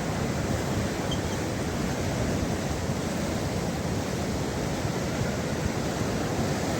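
Steady rushing of floodwater in the Ziz river, flowing again after rain.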